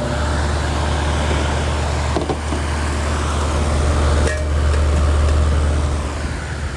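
Sunblazer pool heat pump running after repair: a steady low compressor hum under the whoosh of its fan.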